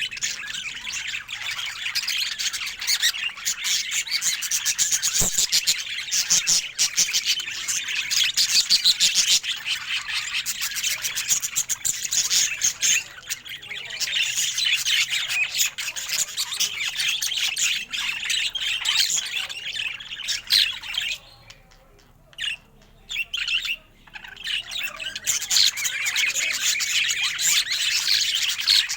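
Budgerigar warbling and chirping in a fast, continuous chatter, with a lull of a few seconds about three quarters of the way through.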